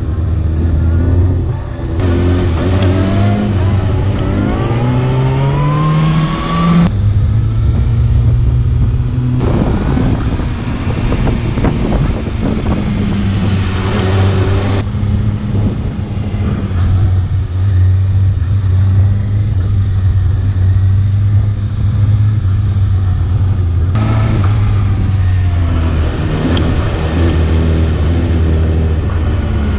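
Kawasaki ZX-6R 636 inline-four sport bike engine heard from on the bike, pulling up through the revs in steps as it shifts gears and easing off for corners. The engine note jumps abruptly a few times.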